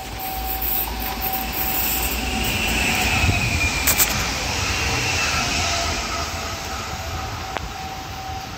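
Stadler FLIRT electric commuter train passing along the tracks, its rumble and wheel noise swelling to a peak about three to four seconds in, then easing as it moves away.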